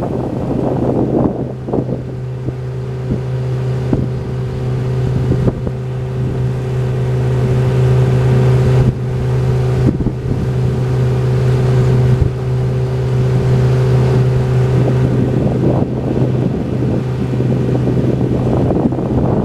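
Boat motor running at a steady speed, a constant low hum, with wind buffeting the microphone.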